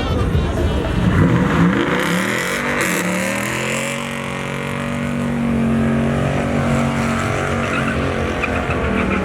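Pickup truck engine revving up over the first few seconds, then held steady at high revs during a burnout, with tyre squeal.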